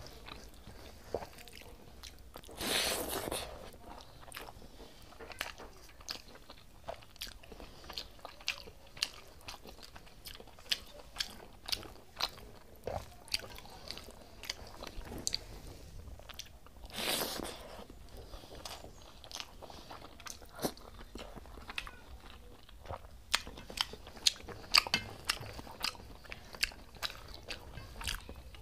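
Close-up eating sounds of a person chewing a mouthful of rice and curd: many short wet clicks and lip smacks, with fingers squishing rice against a steel plate. Twice a louder breathy rush of about a second cuts in, near the start and about halfway.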